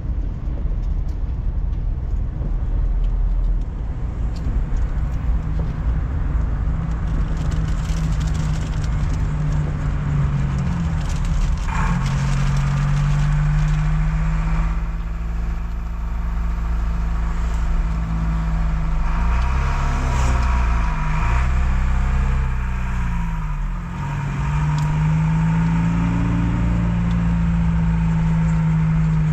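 Car driving, heard from inside the cabin: steady road rumble and a continuous engine hum. The engine note dips and rises a couple of times about two-thirds of the way in, then settles.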